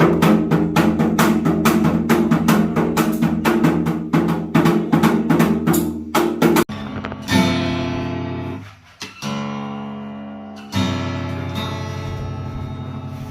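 Acoustic guitar strummed in quick repeated strokes, then three single strums each left to ring and fade.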